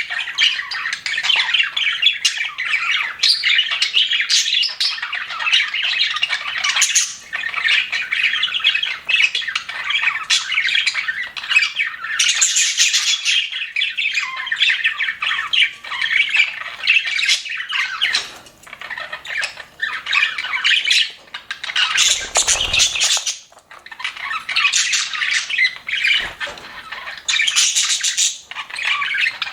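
A flock of budgerigars chattering continuously, a dense tangle of overlapping chirps, warbles and squawks. A short low thump comes about 22 seconds in.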